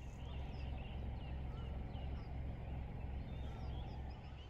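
Birds chirping, many short scattered calls over a steady low rumble.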